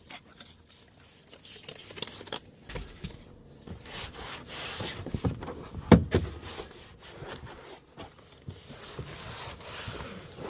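Irregular scraping, rubbing and handling noises from cleaning the inside of a truck, with one loud knock about six seconds in.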